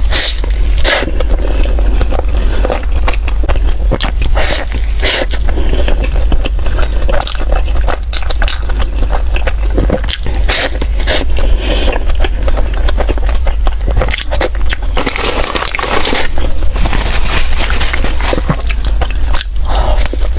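Close-miked eating: biting into and chewing pork floss bread, with many irregular crackles and scrapes, over a steady low hum.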